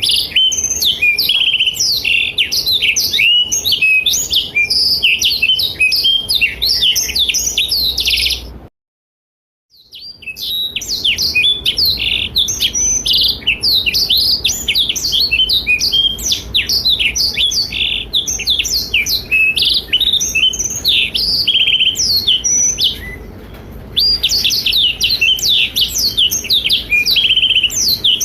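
Black-throated canary (blackthroat) singing a long, fast, high twittering song without pause, breaking off completely for about a second roughly a third of the way in, then resuming, with another brief lull later.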